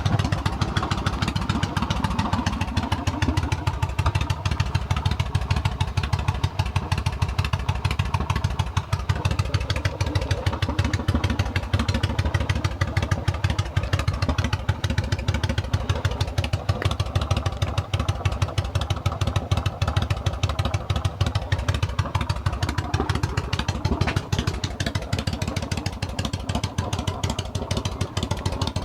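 Yamaha V-Star 1100's air-cooled V-twin idling through short, wrapped straight exhaust tips on cut-down Cobra headers, a loud, steady, lumpy beat that settles lower in the first few seconds.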